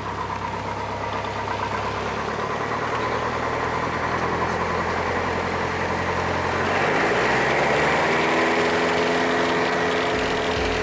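Single-engine Piper Cherokee Warrior's four-cylinder Lycoming engine and propeller, heard from inside the cabin, idling steadily, then throttled up about six seconds in: the pitch rises and holds higher as power is added.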